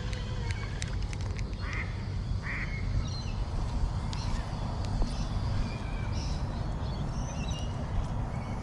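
Birds calling: short high chirps scattered through, and two harsher calls close together about two seconds in, over a steady low rumble.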